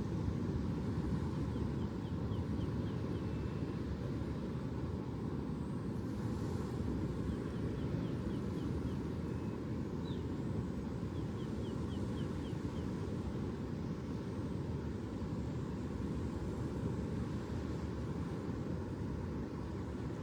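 Steady low roar of ocean surf and wind, without breaks. A faint high trill of short chirps comes through three times.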